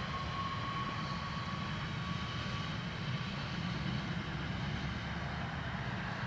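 Bombardier Aventra class 701 electric multiple unit running past at a distance: a steady low rumble with a thin whine that fades out about halfway.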